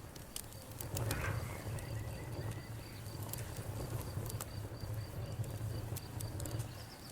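Wood fire burning in a fireplace: a low steady rumble of flames with scattered crackles and pops.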